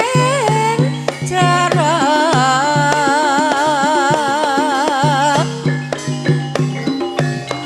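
Gending ebeg Banyumasan, Javanese gamelan music: regular drum strokes and percussion under a singer, who holds one long wavering note through the middle.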